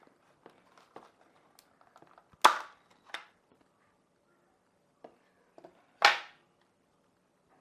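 Plastic snap-fit case of a plug-in power meter being prised open: two loud, sharp snaps a few seconds apart as the clips let go, with smaller clicks and handling noise between.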